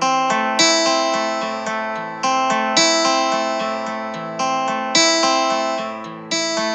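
Background music: an acoustic guitar playing plucked chords, each struck about every second or two and ringing out as it fades.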